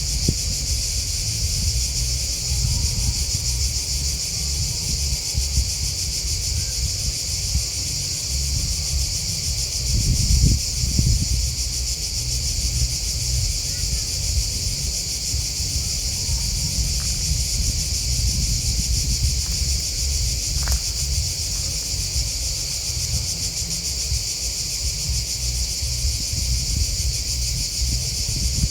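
Steady, high-pitched chorus of crickets and grasshoppers chirping without a break. Under it runs a low rumble that swells about ten seconds in.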